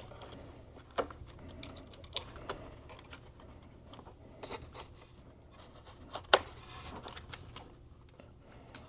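Scattered small clicks and taps of hands handling computer parts and tools, a few at a time with pauses between, the sharpest click about six seconds in.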